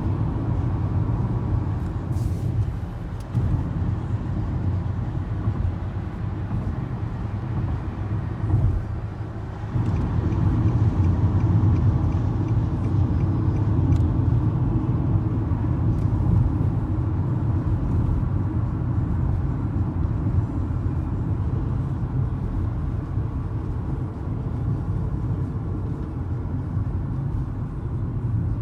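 A car driving, with a steady low rumble of engine and road noise and a few faint ticks.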